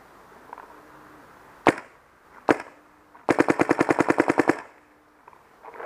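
Clone VX paintball marker firing through a Freak barrel with a Luxe tip (.687 bore): two single shots about a second apart, then a fast ramping burst of about fifteen shots in just over a second.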